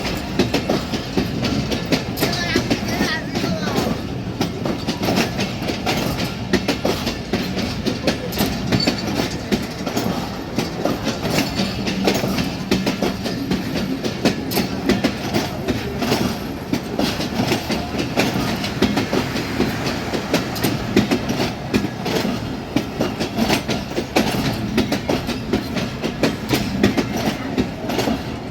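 Passenger train running on the track, its coach wheels clattering steadily over rail joints with a continuous rumble and dense clicking that doesn't let up.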